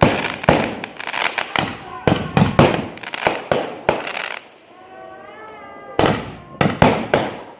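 Fireworks and firecrackers going off in rapid succession, several sharp bangs a second. The bangs stop for about a second and a half past the middle, then start again.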